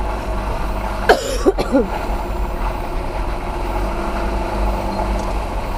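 Nissan Pathfinder's engine running steadily, with tyre and road noise, heard from inside the cabin while driving a muddy dirt track. A short vocal sound, like a cough, comes about a second in.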